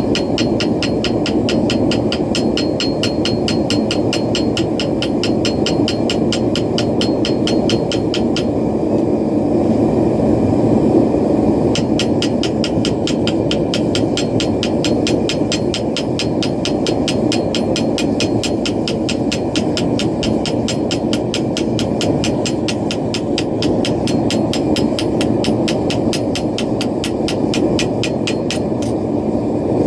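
A propane forge roars steadily under fast, even hammer taps on steel, about five a second. The taps pause for a few seconds about a third of the way in, then resume.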